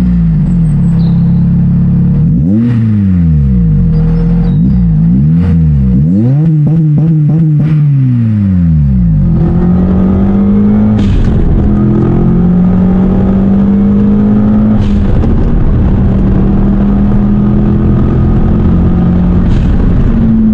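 Car engine revved in a series of quick blips, its pitch rising and falling about five times, then held at a steady speed from about nine seconds in.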